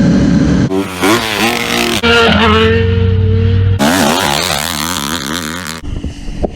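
Engine sounds in short clips joined with abrupt cuts. An engine revs up and down quickly and repeatedly, and runs more steadily for a couple of seconds in the middle.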